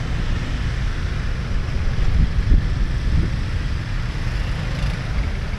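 Street traffic noise: a steady low rumble of passing vehicles, with no clear single event standing out.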